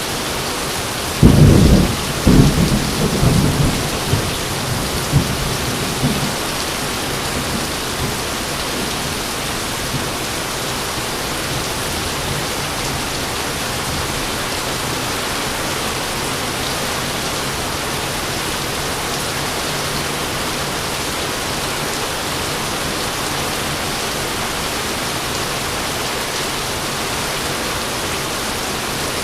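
Steady heavy rain hissing, with a sharp clap of thunder about a second in that rolls on in a low rumble for several seconds before fading back under the rain.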